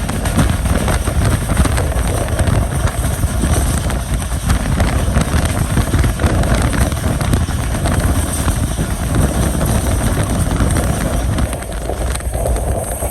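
A passenger train running on the track: a steady, loud rumble of wheels on rail with rattling and some wind noise. Near the end the sound drops a little and changes.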